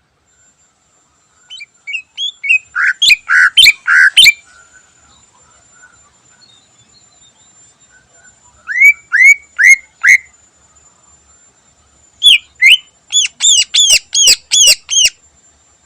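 Green leafbird (cucak ijo) singing: three loud bursts of sharp, quick whistled notes, each note sweeping in pitch. The first run is about a dozen notes, the second five slower notes, and the last a fast run of about ten notes near the end.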